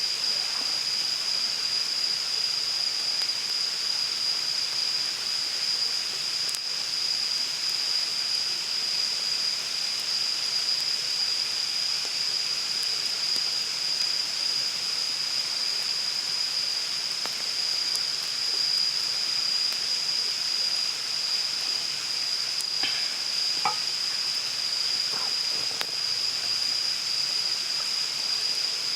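Forest ambience: a steady high-pitched insect drone over the even rush of running water, with a few faint light knocks about three-quarters of the way through.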